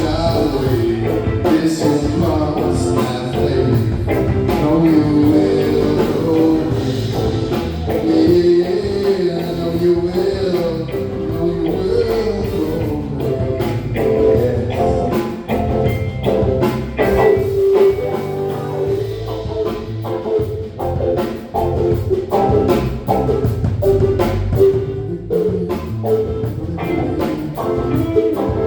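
Live band music: singing over electric guitar and a drum kit, in a blues-rock style.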